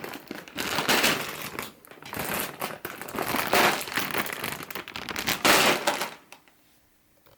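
Bags of crisps crinkling as they are handled: irregular crackly rustling that stops about six seconds in.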